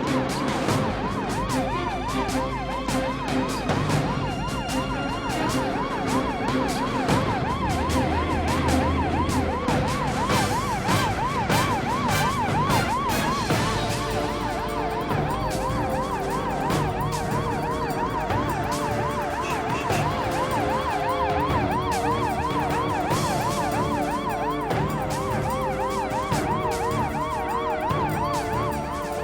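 Police car siren in a fast yelp, about three rises and falls a second, over tense background music.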